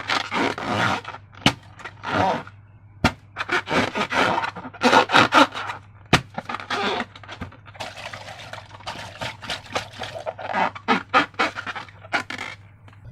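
Slime and rubber balloons being handled by hand: a run of short sticky squishes and rubbery scrapes, with a few sharp clicks among them.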